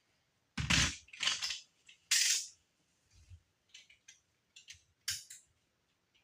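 Handling noises from work with tools and parts: three short, rough, noisy sounds in the first couple of seconds, then scattered light clicks and taps.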